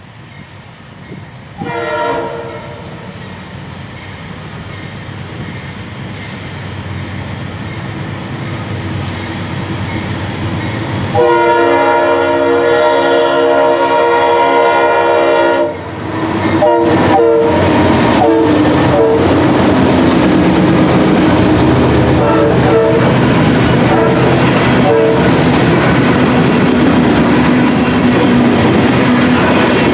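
GE D9-44CW diesel locomotive approaching and passing: its horn sounds a short blast about two seconds in, a long blast of about four and a half seconds, then a run of short blasts, over rising engine noise. In the last seconds the wheels of the covered hopper cars roll steadily past on the rails.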